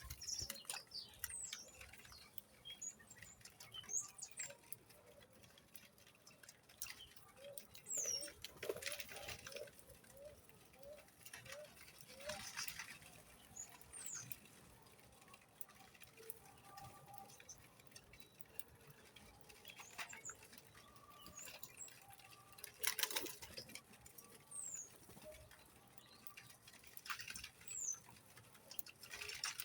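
Small birds giving brief high chirps among scattered light clicks and taps. A run of about eight short, lower notes comes from about a third of the way in.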